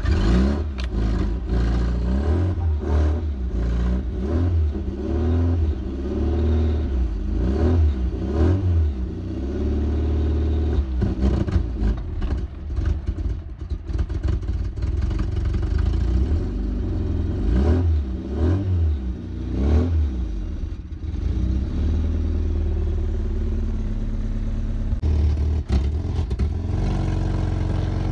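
Nissan 240SX's KA24 four-cylinder engine catching right at the start and then running, revved up and down again and again. Heard from the driver's seat.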